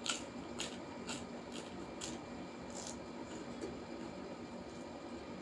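Crunching bites and chewing of a raw okra pod close to the microphone: a run of crisp crunches about every half second, thinning out after about three seconds.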